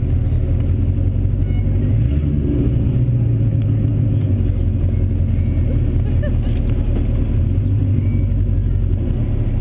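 A car's engine running at low revs as the car rolls slowly, heard close up from a camera mounted on the car's door. The note rises a little about two seconds in and settles back near the end.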